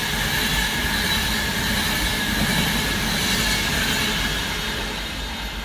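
Class 390 Pendolino electric train passing through the station at speed: a steady rush of wheels and air with a faint high whine, easing slightly near the end.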